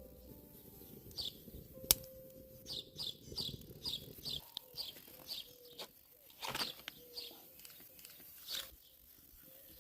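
Small bird chirping: a run of short high chirps about two a second, then a few scattered ones. A single sharp click about two seconds in, over a low rumbling noise that stops a little before halfway.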